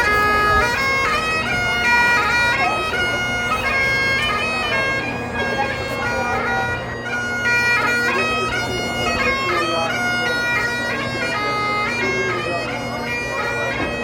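Bagpipes playing a tune: a melody stepping between held notes over a steady, unchanging drone.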